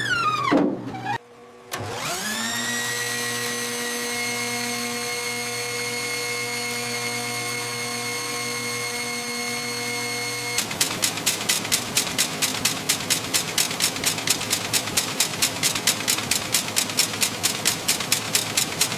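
Electric motor of an industrial machine winding down, cutting out briefly, then spinning back up to a steady whine. About halfway through the whine gives way to a rapid, even mechanical beat of about five strokes a second.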